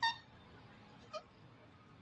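Green parrot giving short calls: one right at the start and a brief one about a second in.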